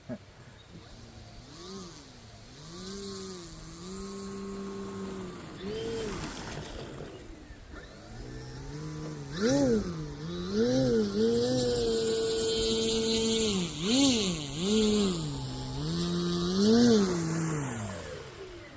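Electric motor and propeller of a 3DHS Extra 330 SC model plane revving up and down in short throttle bursts as it taxis, the pitch rising and falling again and again, with a couple of steady stretches. It gets louder in the second half and dies away near the end.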